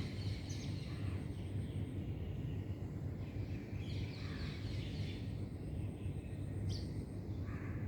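Birds chirping in short bouts, near the start, about four seconds in and near the end, over a steady low background rumble.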